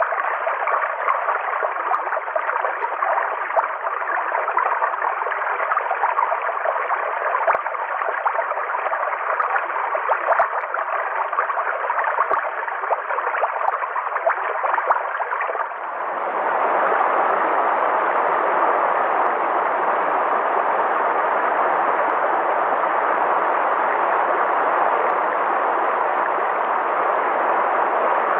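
River water flowing and splashing, with small irregular plinks over the rush. About sixteen seconds in it changes abruptly to a smoother, steadier and deeper rush of water.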